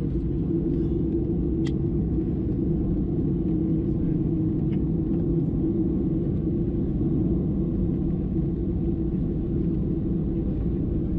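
Steady low rumble inside a Boeing 737-700 cabin as it taxis after landing, from the engines and air systems, with a couple of faint clicks.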